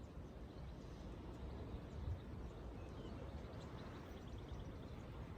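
Quiet outdoor ambience: a low rumble of wind on the microphone with faint bird chirps, including a quick run of them about three seconds in.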